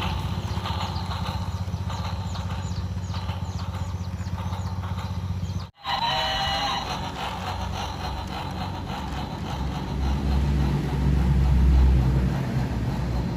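Electric model train running on its track: a steady low motor hum with light ticking, in two clips joined by a cut about six seconds in. The hum grows louder near the end.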